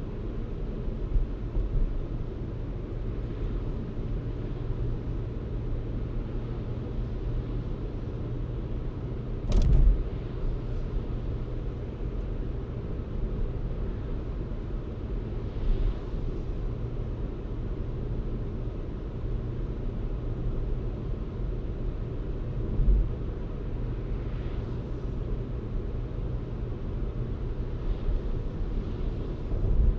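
Car driving: a steady low rumble of engine and road noise, broken by a few short thumps. The sharpest thump comes about ten seconds in.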